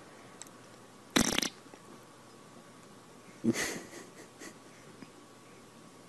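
A baby passing gas twice: a short sudden burst about a second in, then a longer, lower one about three and a half seconds in with a couple of smaller ones after it.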